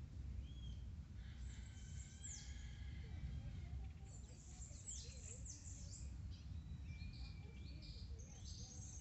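Birds calling around a pond: quick downward-sweeping chirps and a few held whistled notes, starting about a second and a half in and busiest in the second half, over a steady low rumble.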